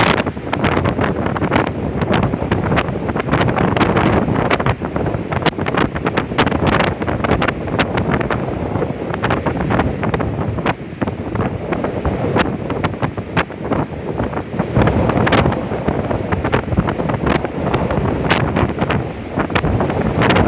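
Gale-force storm wind buffeting the microphone over rough, stormy sea surf, steady and loud, with frequent sharp ticks and pops all through.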